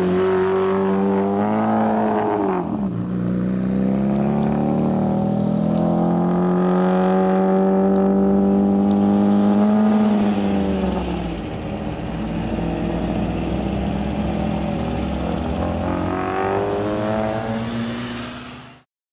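Lamborghini truck's V12 engine accelerating. Its pitch climbs and drops sharply about two and a half seconds in, then climbs slowly for several seconds and falls away around ten seconds in. It rises again near the end, and the sound cuts off suddenly.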